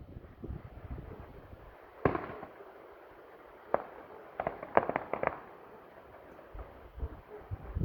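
Fireworks bursting overhead: a single loud bang about two seconds in, another nearly two seconds later, then a quick run of five or so sharp cracks around the five-second mark.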